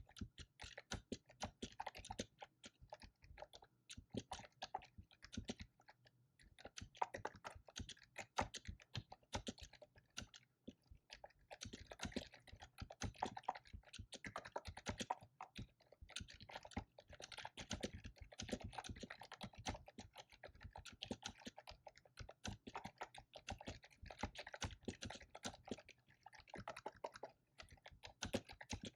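Fast typing on a computer keyboard: a continuous, irregular run of keystroke clicks with short pauses between bursts.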